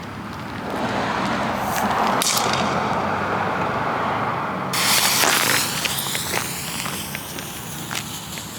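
Ground fountain firework spraying sparks with a steady hiss. The hiss builds up within the first second, turns suddenly brighter and louder about five seconds in, then eases off with scattered crackles.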